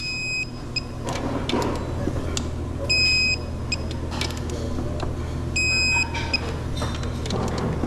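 Digital torque-angle wrench beeping three times, a few seconds apart, as engine bolts are turned to a 65-degree final angle, with the bolts squeaking and creaking between the beeps. A steady low hum runs underneath.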